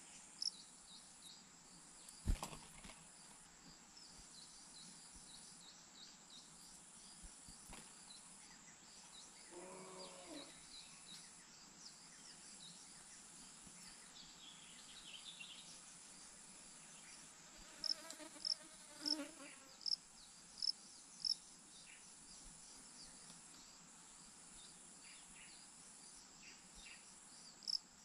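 Faint insect chorus: a steady high-pitched drone with a pulsing trill above it. A single knock comes about two seconds in, and a quick run of short, sharp chirps comes a little past the middle.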